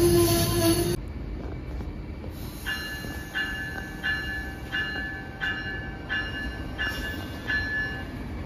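Amtrak train of Amfleet coaches rolling past close by, loud with a steady wheel squeal, then suddenly quieter about a second in. From about two and a half seconds in, an electronic warning bell dings steadily, eight times at about three dings every two seconds.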